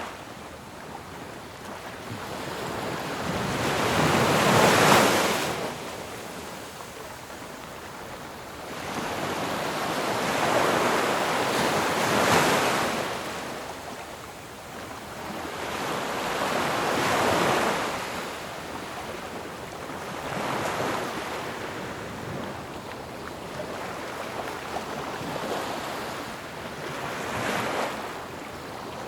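Ocean waves breaking on a shore: rushing surf that swells and falls back about five times, one wave every five to seven seconds, the loudest crashes about five and twelve seconds in.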